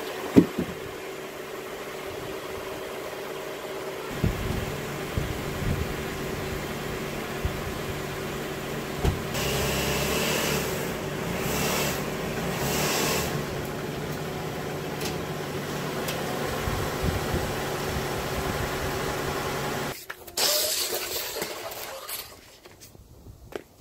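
Lexus RX350's 3.5-litre V6 running at a steady idle, picking up briefly a few times about 10 to 13 seconds in as the SUV is driven up onto ramps, then shut off about 20 seconds in. A sharp knock comes just after the start, and rustling and scraping follow the shutdown.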